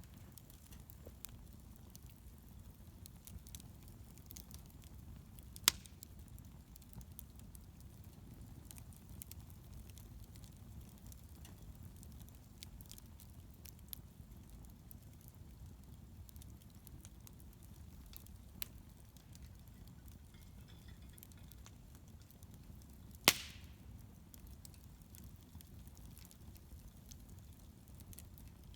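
Wood bonfire burning: a steady low rumble with scattered faint crackles, and two sharp pops, about six seconds in and again near the twenty-three-second mark.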